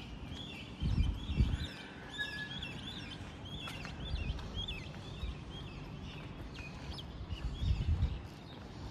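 Birds chirping: a rapid run of short, high chirps. There are a few low thumps about a second in and again near the end.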